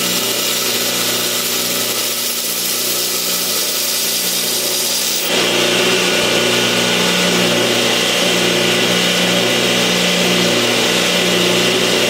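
Electric grinder running steadily with a motor hum and an abrasive hiss, used to finish a knife blade. About five seconds in the sound turns louder and brighter.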